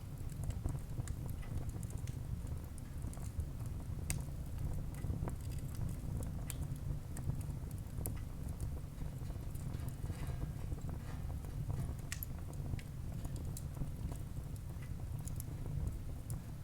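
Wood fire burning in a fireplace: irregular sharp crackles and pops over a steady low rumble of the flames, with a brief faint hiss about ten seconds in.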